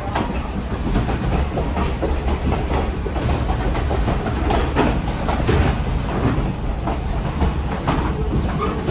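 Passenger train rolling along: a steady low rumble with irregular clacks and knocks from the wheels and running gear.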